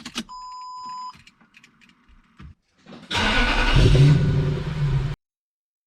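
A short electronic beep and a few light clicks, then a Lexus SC430's 4.3-litre V8 starts and revs briefly, the sound cutting off abruptly about five seconds in.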